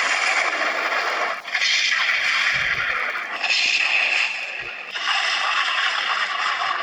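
Parang (machete) blade being sharpened: about four long, loud scraping strokes, each roughly a second and a half.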